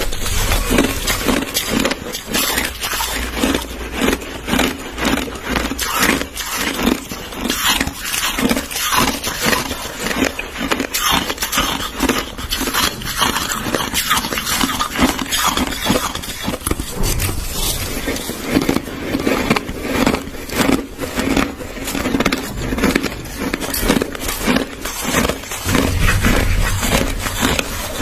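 Close-up chewing of crushed ice: a dense, continuous run of crunches, bite after bite.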